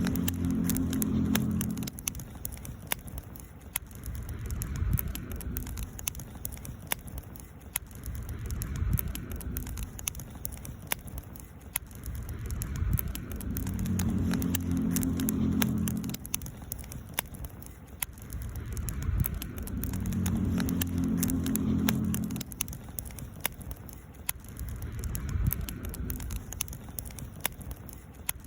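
Wood campfire crackling, with frequent sharp pops and snaps over a low rumble that swells and fades every few seconds.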